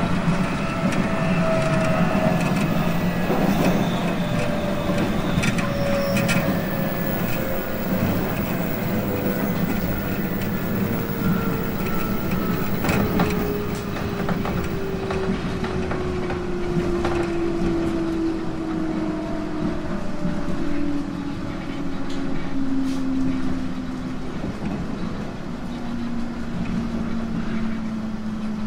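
JR East 719 series electric train running, its motor and gear whine falling steadily in pitch as the train slows, with scattered clicks from the wheels over the track.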